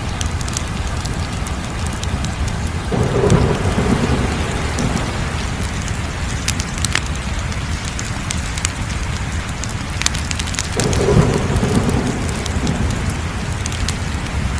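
Wood fire crackling: scattered sharp pops over a steady low rush, with two deeper rumbling swells, about three seconds in and again near eleven seconds.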